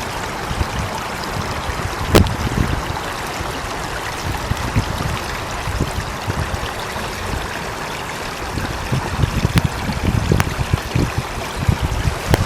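Water running in a stream, a steady babble with a few sharper splashes, one about two seconds in.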